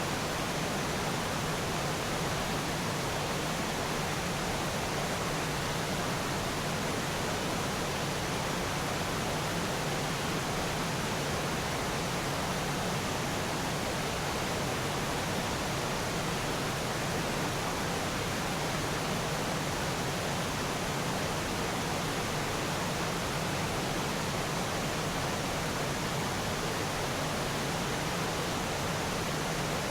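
Steady, even rushing noise that does not change, with no distinct calls, drips or other events.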